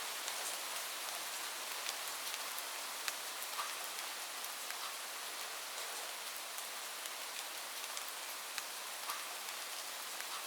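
Light rain falling steadily, a soft even hiss with many separate drops ticking on a hard surface.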